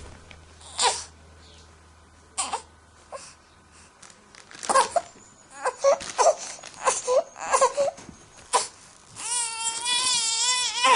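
A baby crying: short broken sobs and cries, then near the end one long wavering wail.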